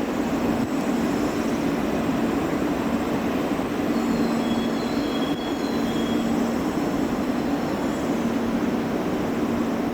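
E2 series Shinkansen train at the station platform: a steady hum and rumble, with faint thin high-pitched squeals about midway.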